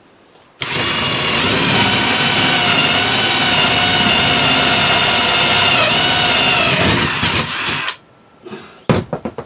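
Power drill running steadily for about seven seconds, boring a hole through the floor, its pitch wavering slightly before it stops. A few short knocks follow near the end.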